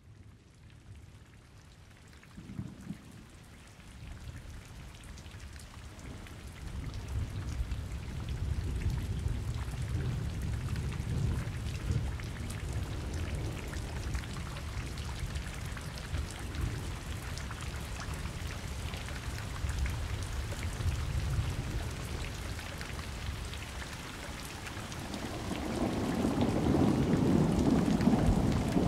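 Steady rain falling, with individual drops heard in the hiss, under rolling thunder. A low rumble swells in after several seconds, and a louder thunder peal builds near the end.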